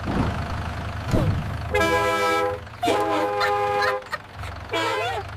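A vehicle horn tooting twice, each about half a second to a second long, over a steady low engine rumble that fades out after about four seconds. A short bending vocal call comes near the end.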